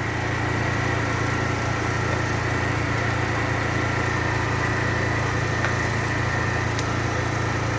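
A small engine running steadily at an even idle, with a thin high whine over a low hum.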